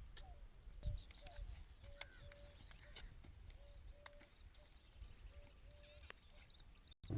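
Faint bird calls: a short, low whistled note repeated about a dozen times, with scattered higher chirps and a few light clicks.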